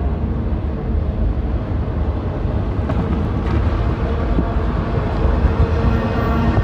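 Train running by: a steady low rumble with a faint steady drone, and a couple of faint clicks about three seconds in.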